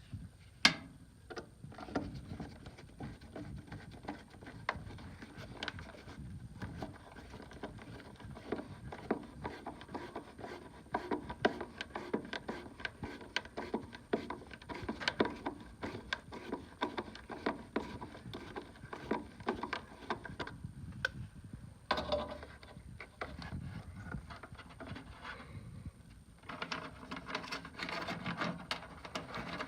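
Irregular clicks, taps and scraping from hand work with tools and parts on a gas furnace, with one sharper knock about a second in.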